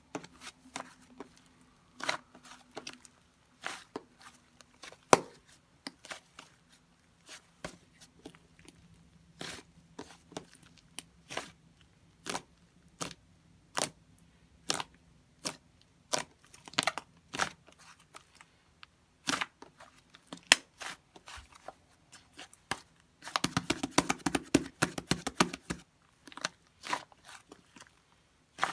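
Mixed clay slime being squeezed and pressed by hand, giving scattered sharp clicks and pops, then a burst of rapid crackling about 23 seconds in.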